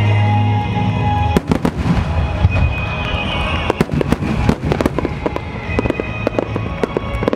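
A rapid barrage of large aerial firework shells (shakudama) bursting, dozens of booms and cracks in quick succession starting about a second and a half in. Music plays underneath, and it is heard alone before the bursts begin.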